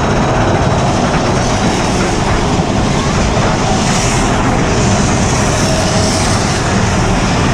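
Big Thunder Mountain Railroad mine-train roller coaster running along its track: a loud, steady rumble and rattle of the train.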